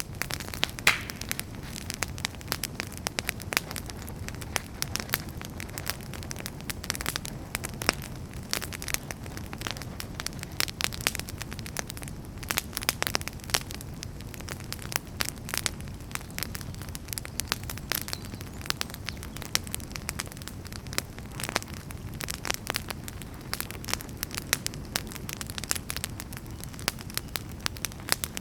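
Fire in a fireplace crackling: frequent irregular sharp pops and snaps over a steady low rumble of burning.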